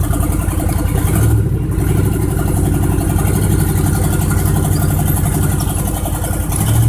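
Engine of a Chevrolet pickup truck running steadily under way on snowy roads, heard from inside the cab, with a low steady drone that grows louder about a second in.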